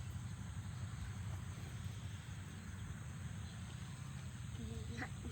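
Steady outdoor background of even hiss with a low rumble underneath, and a couple of faint short calls near the end.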